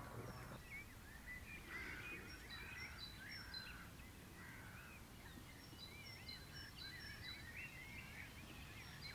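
Faint birdsong: several small birds chirping and warbling in short repeated phrases, over a low background rumble.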